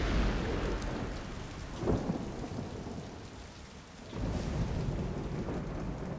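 Thunderstorm: heavy rain with rolling thunder, a sharp crack about two seconds in and a fresh rumble swelling up about four seconds in.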